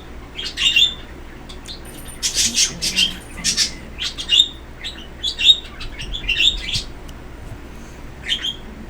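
A small bird chirping and tweeting in quick short calls, repeated again and again with brief pauses between them.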